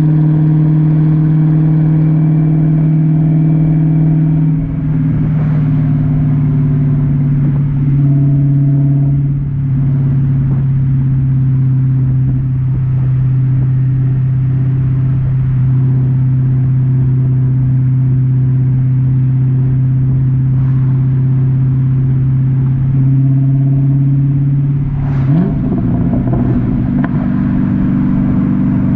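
2009 Dodge Challenger SRT-8's 6.1-litre Hemi V8 exhaust droning at a steady cruise, its pitch stepping down slightly about five and ten seconds in. Near the end the revs climb quickly as it accelerates.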